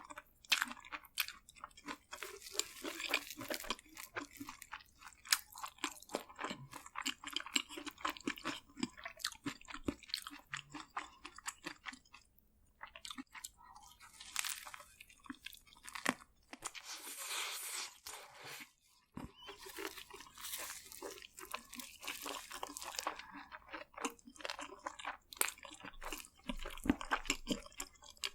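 Close-miked crunching and chewing of crispy fried food: bites into a crunchy coating followed by wet chewing, with a couple of brief pauses.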